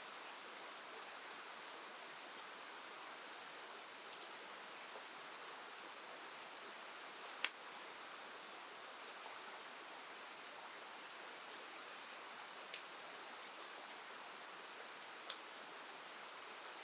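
Steady hiss of rain and a flowing river, with a few short sharp pops on top, the loudest about seven seconds in.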